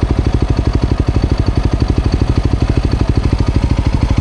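Motorcycle engine running at a steady idle, an even beat of firing pulses with no revving.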